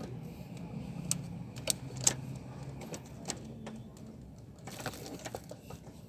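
Scattered sharp metallic clicks and clinks of hand tools on the diesel fuel system while a fitting is closed and tightened, over a faint low hum.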